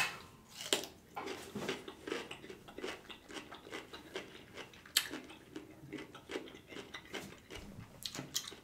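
Close-miked biting and chewing of a cucumber spear: a bite at the start, then irregular crisp crunches and wet mouth sounds, with one sharper crunch about halfway through.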